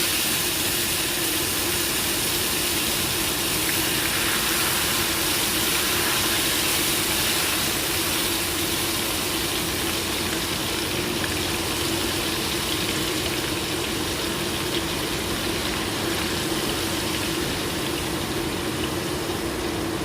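Blended garlic frying in hot oil, a steady sizzle, with a constant low hum underneath.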